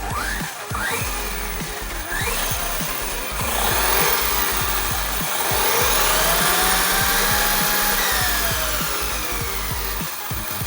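An ARRMA Fireteam 6S RC car's brushless electric motor whining over background music. It gives a few short rising bursts of throttle, then one long whine that climbs in pitch, holds, and falls away as the car speeds up and slows down.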